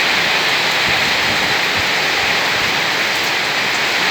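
Heavy rain pouring down steadily in a storm, an even, unbroken rush.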